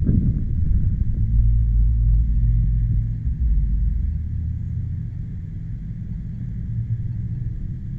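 Low rumble of wind buffeting the microphone, with the steady hum of a car engine running. The rumble is heaviest in the first few seconds and eases about halfway through.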